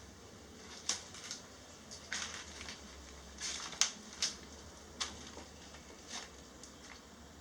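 Irregular crunching and crackling of footsteps on a debris-strewn floor, a dozen or so short crunches at uneven intervals, the loudest near the middle.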